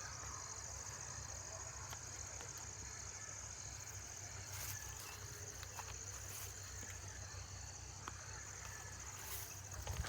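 Insects chirring steadily in a continuous high-pitched drone over a low background rumble, with a few faint clicks.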